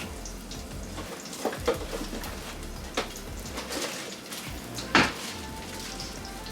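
Kitchen prep: a few sharp knocks and clinks of a knife and utensils on the counter while an onion is cut, the loudest about five seconds in, over a steady low hiss.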